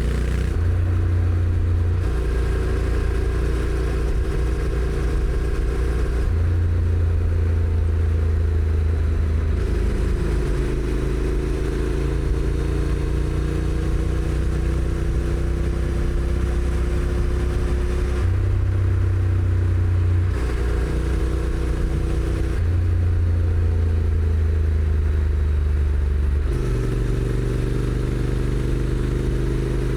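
Honda NC750X DCT's parallel-twin engine through its stock exhaust, heard from the rider's seat while riding. The engine note holds steady in stretches and climbs slowly for several seconds about a third of the way in, then drops and changes as speed and gears change.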